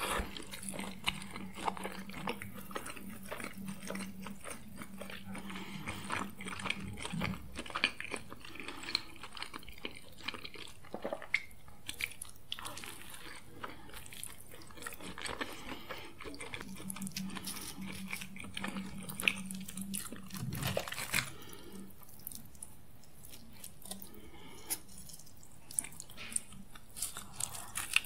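Close-up eating sounds: bites into a toasted sandwich and steady chewing, with crunching and many small wet mouth clicks. A low steady hum comes in twice, near the start and again later.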